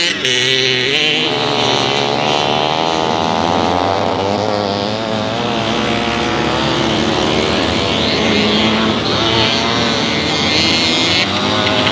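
Several vintage motorcycle engines running at once, revving, their pitches rising and falling against each other as the bikes race.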